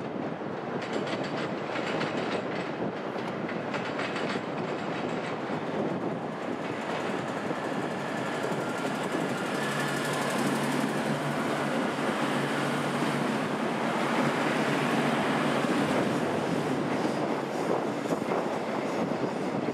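Melbourne suburban electric train running past on the track, wheels clacking rapidly over rail joints in the first few seconds, then a steady low hum over the rumble through the middle.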